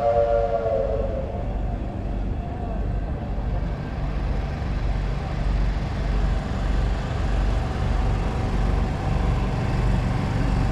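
A steam locomotive's chime whistle sounding a chord that fades out with a slight fall in pitch about a second in, followed by a steady low rumble.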